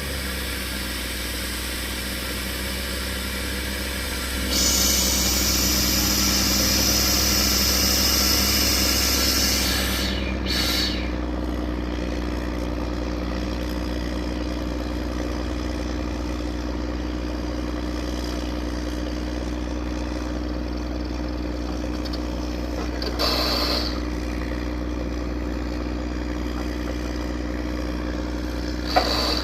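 Drilling machine's engine running steadily with a low hum, growing louder and hissier for about five seconds near the start, with a few short bursts of noise later on.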